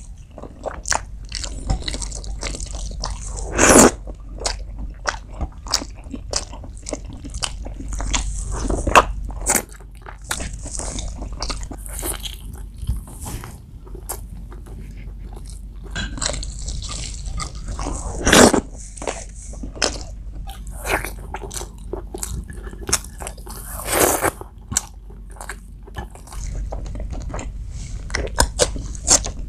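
Close-miked eating sounds: wet chewing, biting and lip smacking through mouthfuls of spicy pork curry and biryani rice eaten by hand, with many small mouth clicks and a few louder bites.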